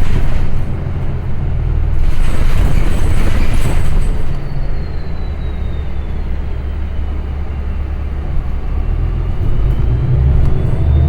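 Transit bus engine and road noise heard from inside the cabin while the bus is driving: a steady heavy low rumble with a rush of noise above it. A faint high whine falls and then rises again in pitch over the second half.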